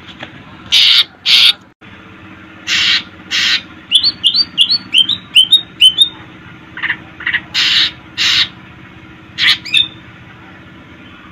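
Cucak ijo (green leafbird) singing a varied song: loud, harsh rasping notes in pairs, and in the middle a quick run of about seven short rising chirps.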